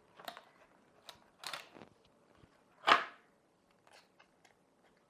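Small plastic clicks and knocks from handling the parts of an opened digital multimeter, with a short scrape about one and a half seconds in and one sharper knock about three seconds in.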